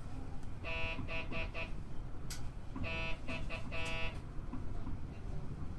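An electric buzzer sounds in two groups, each a longer buzz followed by a few quick short ones, all on the same pitch, over a low steady rumble.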